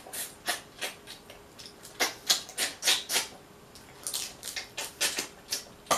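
Close mouth sounds of someone eating Dungeness crab meat: wet chewing and lip smacking heard as short, irregular clicks.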